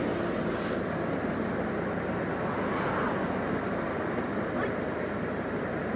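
Steady noise of a car and street traffic, a low even rumble with no single event standing out.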